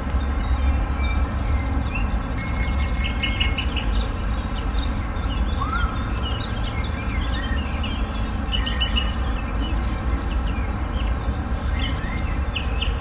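Birds chirping in short scattered calls over a steady low rumble, with a brief high chime-like tinkle about two and a half seconds in.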